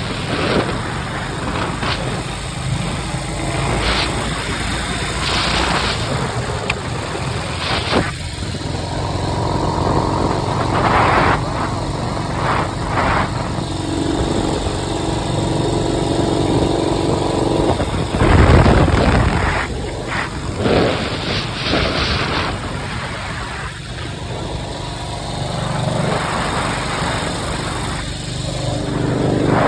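A 1953 Harley-Davidson Panhead V-twin engine running steadily under way, heard from its sidecar, with repeated surges of wind rush over it.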